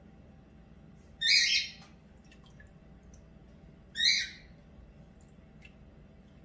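A pet bird squawking twice: two short, loud calls about three seconds apart, the first a little after a second in and the second about four seconds in.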